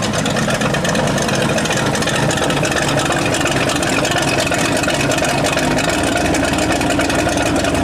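Rat rod truck's engine running steadily, a loud, rapid exhaust note with no change in speed.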